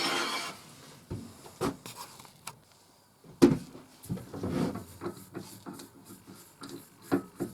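Knocks, clunks and a short scrape of a metal lathe chuck, with a wooden blank still held in it, being taken off the lathe and handled on the bench. The sharpest clunk comes about halfway through.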